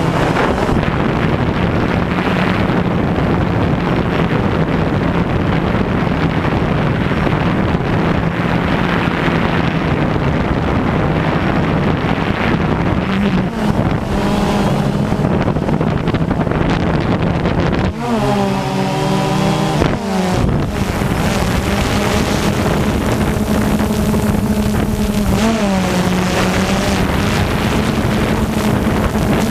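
DJI Phantom 2 quadcopter's motors and propellers humming steadily in flight, with heavy wind buffeting the onboard GoPro's microphone. The hum's pitch wavers up and down for a couple of seconds about two-thirds of the way through, and briefly again near the end.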